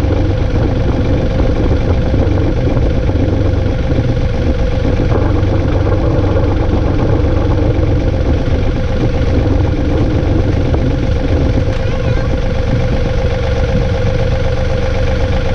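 John Deere 2032R compact tractor's three-cylinder diesel engine running at a steady speed.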